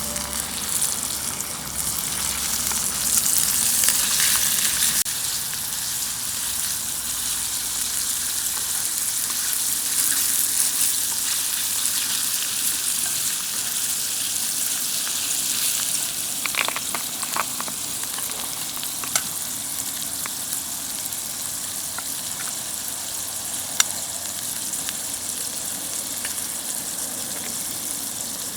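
Oil sizzling steadily as food fries in a cast-iron skillet over a campfire, a little louder in the first few seconds, with a few light clicks a little past halfway.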